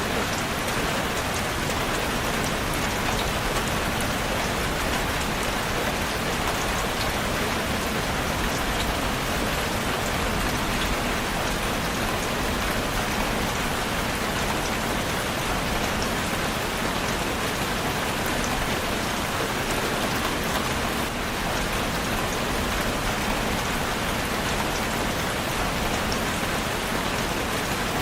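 Steady, heavy rainfall: dense patter of raindrops on surfaces, with fine scattered drop ticks.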